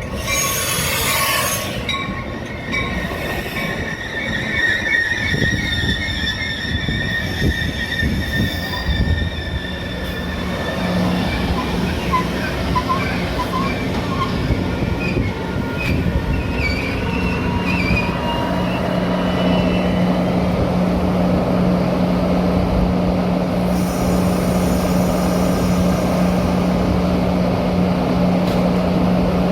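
Metra commuter train moving on its rails, with a burst of hiss near the start, thin high wheel squeal and chirps through the first half, and a steady low hum that comes in after about ten seconds.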